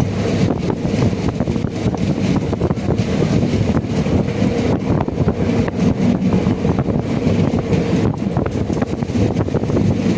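Passenger train running along the line, heard from aboard: a steady, loud rumble of wheels on the rails with irregular sharp clicks and clatter, and wind buffeting the microphone.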